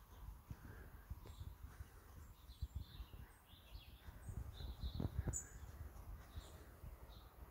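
Small birds chirping in short, scattered calls, over low rumbling thuds from wind or handling.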